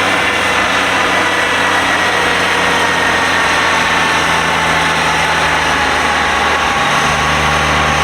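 A vehicle engine running steadily and loud. Its low hum shifts and grows stronger about seven seconds in.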